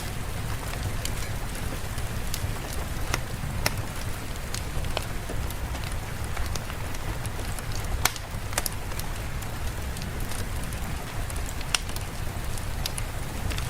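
Steady rain with a low rumble underneath, and irregular sharp crackles and pops from a wood fire, a few of them louder than the rest.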